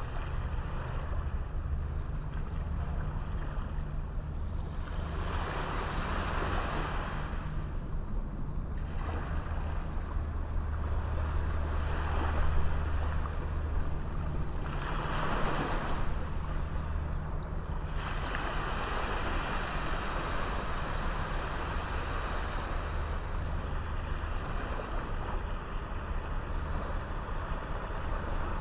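Small waves washing onto a beach in repeated surges of hiss, several swelling and fading over the stretch and a longer wash near the end, over a steady low rumble.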